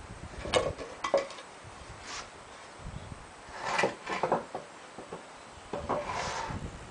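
Pallet-wood boards and pieces knocking and clattering as they are handled and set into place, a scatter of short clacks with a few grouped bursts.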